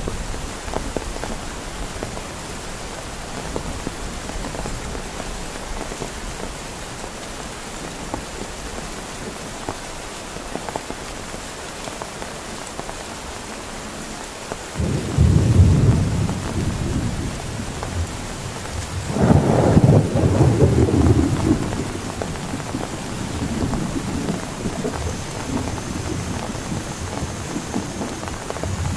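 Heavy rain falling steadily, with two rolls of thunder: a short rumble about halfway through and a longer, louder one a few seconds later.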